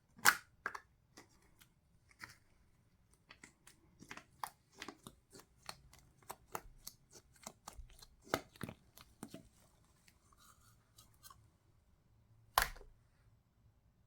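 A run of short, irregular clicks and scratchy ticks from coloring work, with one louder click near the end.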